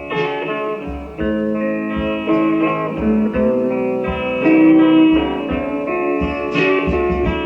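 Instrumental intro of a live rock band: electric guitars playing a melodic line over bass guitar notes, with a few drum hits near the end. It is a live two-track tape recording.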